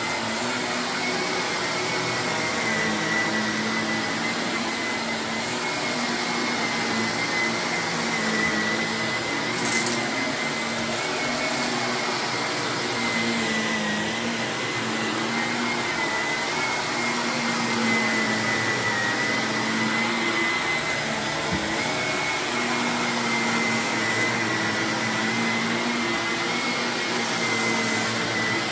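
Vacuum cleaner running steadily over carpet with a steady motor whine, with a brief crackle of crunchy debris being sucked up about ten seconds in and again a moment later.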